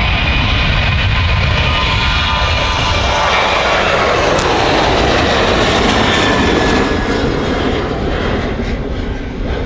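Jet airliner's engines at takeoff power during a departure: loud, steady jet noise with a faint high whine, easing off after about seven seconds.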